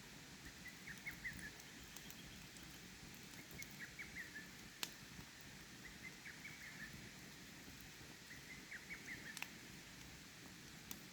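Faint night ambience of a campfire by a stream: steady flowing-water hiss with a few sharp crackles from the fire, while a small animal calls in short bursts of chirps every two to three seconds.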